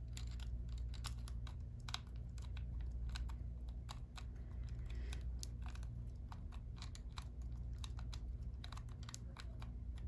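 Small screwdriver working at a battery-cover screw on the underside of a plastic toy bird: many light, irregular clicks and scrapes of metal on the screw and plastic. A steady low hum sits underneath.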